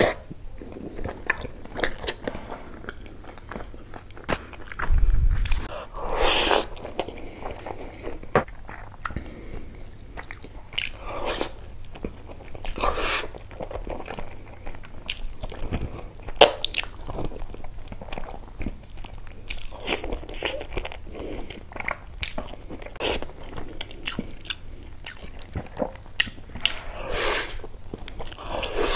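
Close-miked eating sounds of a man biting and chewing meat off the bone from a curry: irregular wet mouth clicks and smacks, with a few louder, longer sounds spread through.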